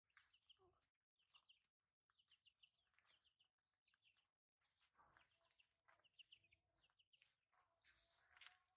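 Faint bird chirping: quick runs of short high notes, repeated several times.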